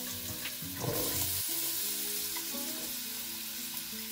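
Sliced onion frying in hot olive oil in a pot: a steady sizzle that grows stronger about a second in.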